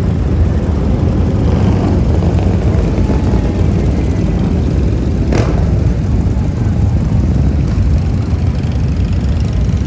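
Motorcycle engines rumbling steadily, with a short sharp crack about five seconds in.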